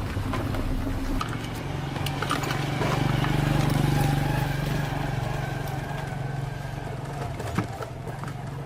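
A motor or engine running with a steady hum that builds to its loudest about three to four seconds in, then slowly eases off.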